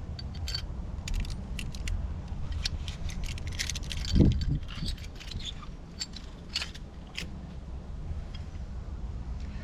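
Metal plumbing fittings being handled and cleaned: scattered clicks, rattles and scrapes, with one louder dull knock about four seconds in.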